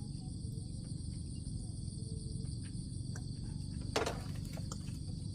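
Insects trilling steadily in a high-pitched chorus over a low rumble, with a brief sharp sound about four seconds in.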